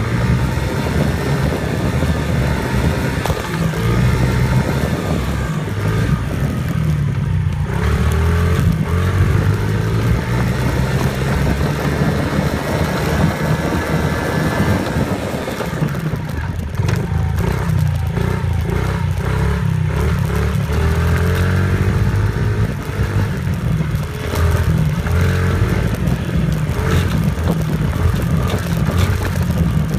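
Dirt bike engine running loudly throughout, its pitch rising and falling as it is revved, with a few gliding rises near the middle.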